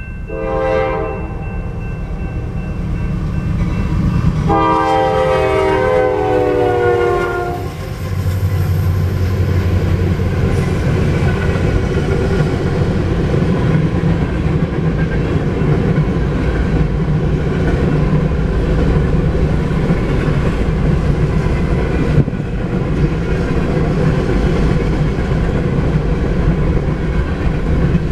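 Freight locomotive horn: a short blast, then a long one whose pitch sags as it goes by. After that come the steady rumble of the passing diesel locomotives and the rolling clatter of a manifest freight's cars on the rails.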